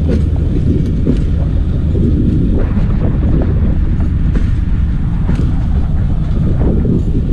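Passenger train moving slowly backwards through a station, heard from an open coach doorway: a steady low rumble of the coaches with wheels clicking now and then over rail joints.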